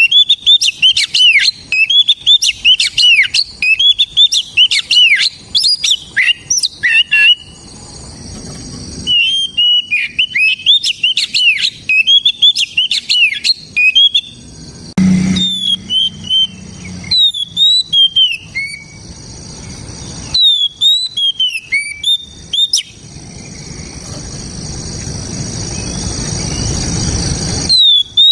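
Oriental magpie-robin (kacer) singing in quick runs of chirps and whistles, slowing about halfway through to single, separate whistled notes.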